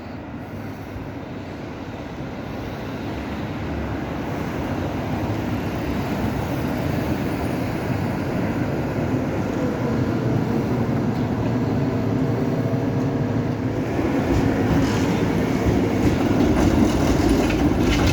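Tram running on its rails, growing steadily louder as it approaches.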